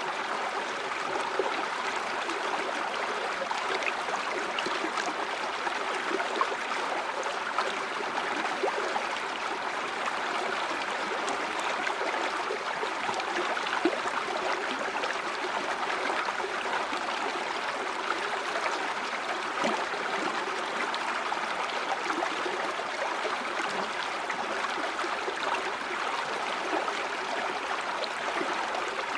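River water flowing steadily over rocks, a continuous rush with small gurgles and splashes.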